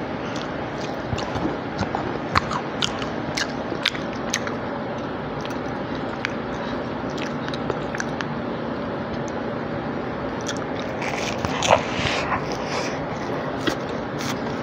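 Close-miked chewing of fried breaded cauliflower, with many short crisp crunches and wet mouth clicks over a steady background hiss. A louder cluster of crunches comes about three quarters of the way through.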